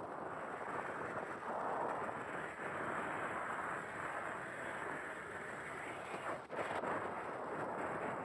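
Vehicle driving on a dirt road: steady rushing road and wind noise with no clear engine note, dropping out briefly about six and a half seconds in.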